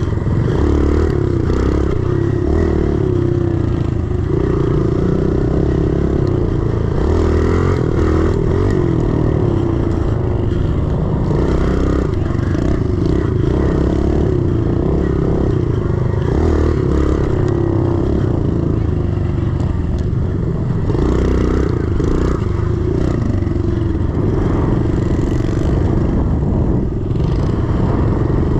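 A 110cc four-stroke single-cylinder pit bike engine running hard as the bike is ridden around a dirt track. The engine revs rise and fall continuously.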